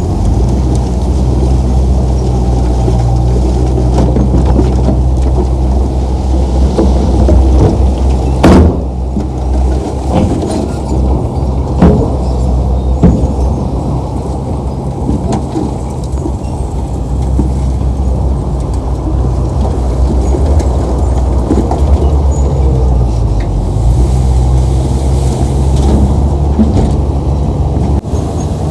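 Heavy diesel earthmoving machinery running steadily under load, a low engine rumble with a few sharp metallic knocks, the loudest about a third of the way in.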